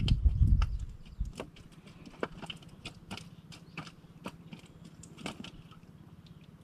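Low knocks in the first second, then scattered light clicks and taps, a few a second and irregular.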